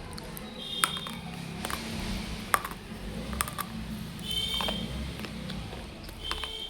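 Crunchy noodles crunching and cracking close to the microphone: irregular sharp crunches, with a few short high squeaks in between.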